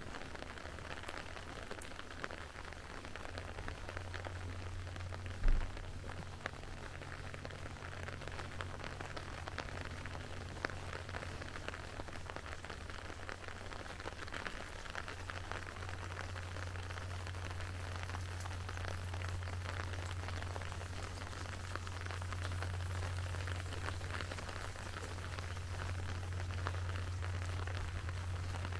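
Steady rain falling, with a constant scatter of small drop ticks over an even hiss. A steady low hum runs underneath and grows stronger in the second half, and a single thump comes about five seconds in.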